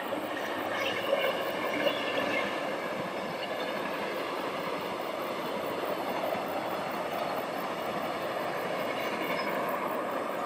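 Passenger train running past on its track: a steady rush of wheels on rails.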